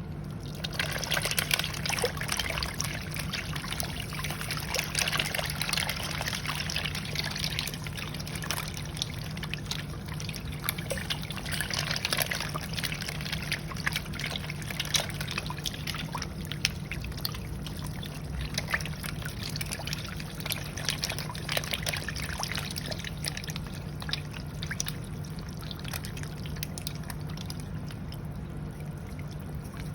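Water trickling and splashing in many small crackling splashes, busiest in the first half and thinning toward the end, over a steady low hum.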